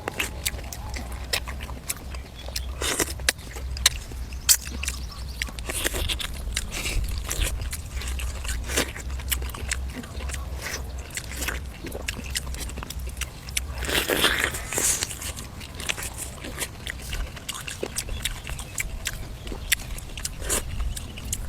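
Close-up eating sounds of a person biting and chewing braised duck and vegetables, with frequent crisp clicks and smacks. A louder, longer crunch comes about two-thirds of the way through.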